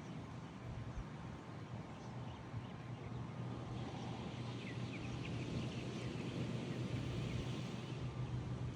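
Outdoor seaside ambience: a steady rushing wash with a constant low hum beneath it, and a quick run of high bird chirps about halfway through.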